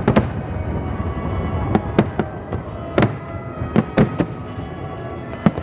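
Fireworks bursting in scattered single bangs, about seven over a few seconds, over steady music.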